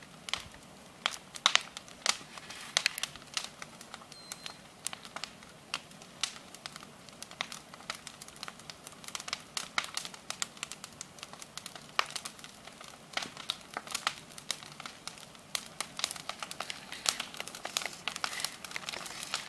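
Bonfire of branches, twigs and leaves burning, crackling with irregular sharp pops and snaps.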